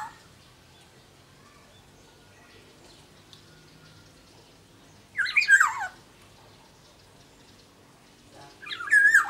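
Black-naped oriole (kepodang) giving two short, loud calls, one about five seconds in and one near the end, each a quick jumble of notes sliding downward.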